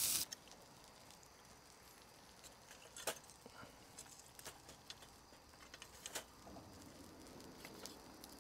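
A loud frying sizzle cuts off abruptly at the very start, leaving quiet with a few faint scattered clicks and taps, the clearest about three and six seconds in.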